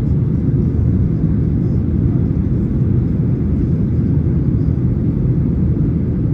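Steady deep rumble heard inside the cabin of a Boeing 737-900ER climbing after takeoff, from its two CFM56-7B26 turbofan engines.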